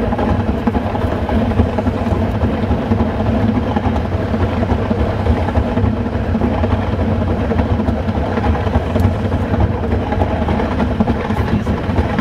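Metre-gauge train running along the track, heard from inside its rear cab: a steady rumble with a low hum.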